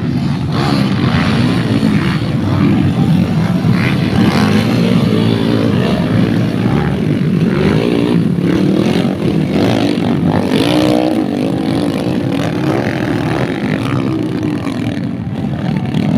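Several dirt bike engines running and revving at once, their pitch rising and falling throughout.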